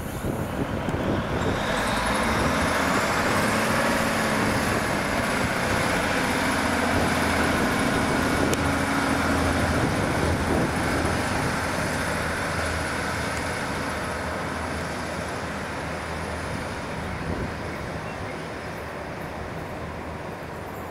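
A train passing, its running noise with a few steady tones building over the first two seconds, holding, then slowly fading through the second half.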